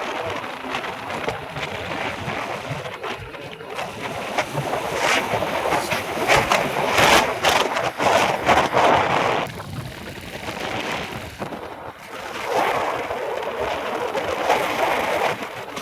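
Rushing road-traffic noise, swelling louder between about six and nine seconds in.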